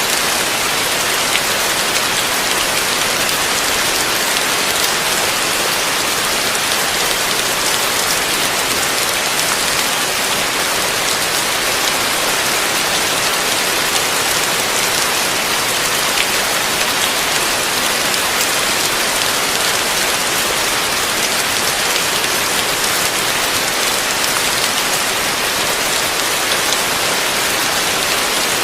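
Heavy rain falling steadily on a surface, a dense even hiss of countless drops with no let-up.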